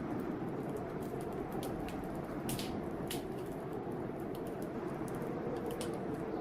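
Wood fire crackling in an open fireplace, with frequent small ticks and a few louder pops. Under it runs a steady, slightly wavering rush of blizzard wind.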